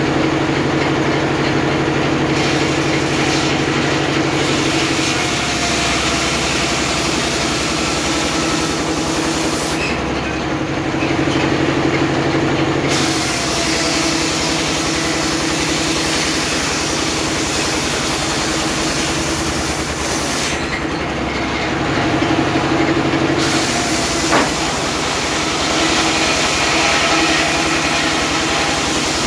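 Homemade circular-saw sawmill running steadily while cutting teak rafters, a loud mechanical din whose engine note shifts every few seconds as the cut goes on. A single sharp click sounds near the end.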